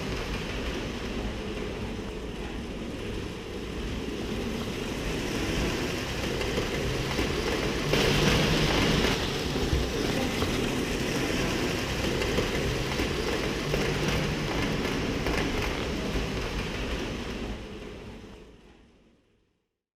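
Model trains running on a layout track, a steady rumble and clatter of wheels and motors that fades out near the end.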